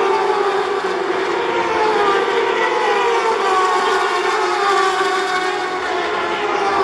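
Superbike race motorcycle engine running hard at high revs, its pitch gliding up and down as the rider works the throttle and gears.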